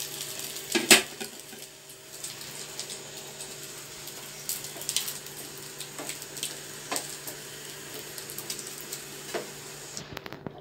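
Bread-and-egg pizza base frying in a little oil in a non-stick pan on low flame, its second side cooking after the flip: a steady sizzle with scattered crackles. There is a sharp knock about a second in, and the sizzle cuts out near the end.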